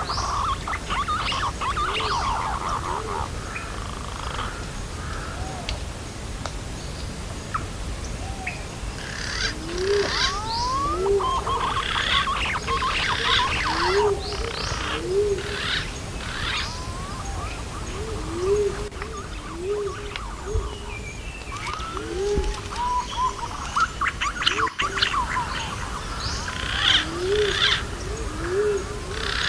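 Green pigeons (punai) calling in a lure recording. Short low rising notes repeat every second and a half to two seconds, over clusters of higher chirping and whistling calls, against a steady background hiss.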